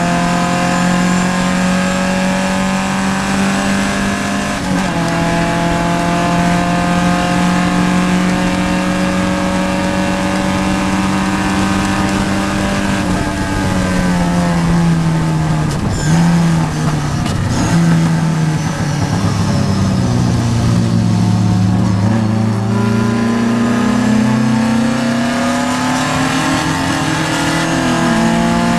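Vintage Triumph race car's engine heard from inside the car at racing speed. It holds high revs, shifts up about five seconds in, then drops revs through downshifts with brief blips around the middle. It pulls from low revs back up through the gears, with another shift near the end.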